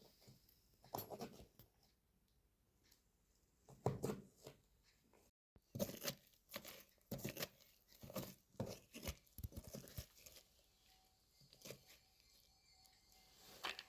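Irregular short handling sounds, faint: rustles, scrapes and light knocks coming in quick uneven clusters.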